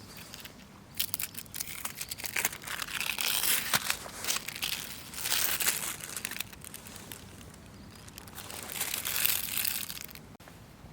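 Crinkling and crumpling handling noise in several bouts, with some short sharp crackles at the start.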